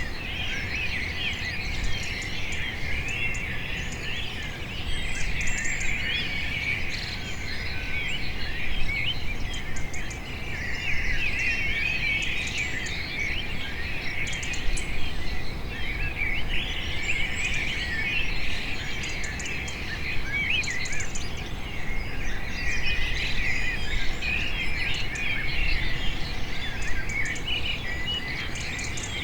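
A dense chorus of many small birds chirping and twittering at once, the calls overlapping without pause and swelling and easing every few seconds, over a low background rumble.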